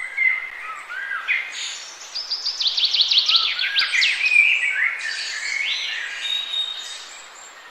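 Several songbirds singing: short whistled chirps and rising and falling notes, with a fast trill of quickly repeated notes about two to three and a half seconds in.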